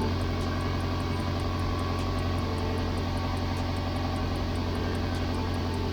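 2003 Toyota Camry 2.4's engine idling steadily, run to heat the exhaust so the fresh exhaust paste on the repaired rear-muffler joint cures.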